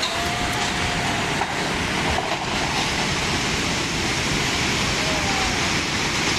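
Steady loud rush of fast-flowing floodwater, with faint voices calling now and then.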